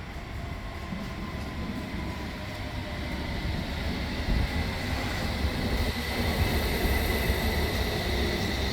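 A train running and growing steadily louder, a low rumble with a faint steady high whine above it.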